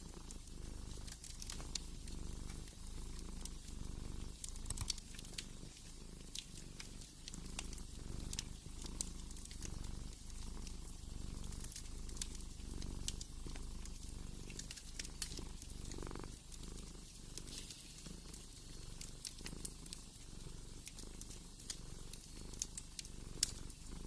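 A cat purring steadily in a low, pulsing rumble, with a wood fire crackling over it in frequent, irregular sharp pops.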